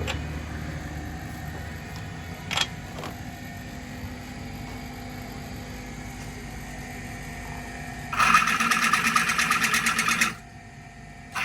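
A small motorised tool running in two short bursts with a fast, even rattle, the first about two seconds long and the second brief near the end, over a steady low hum.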